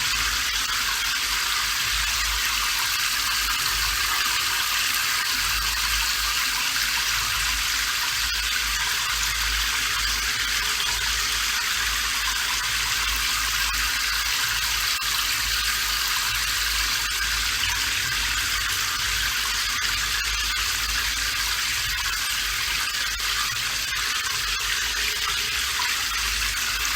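Steady rainfall, an even hiss that does not change, with a low rumble underneath.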